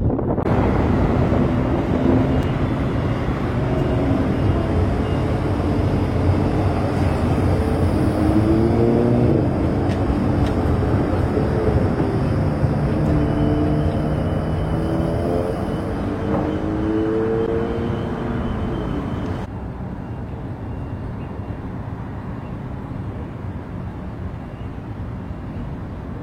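Alicante tram running, with a steady rumble and an electric motor whine that glides up and down in pitch several times. The sound drops and grows quieter about three-quarters of the way through.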